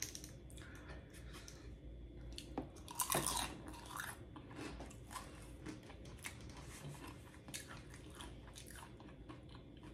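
A person chewing a mouthful of food close to the microphone: faint, irregular wet clicks and small crunches, with one louder mouth sound about three seconds in.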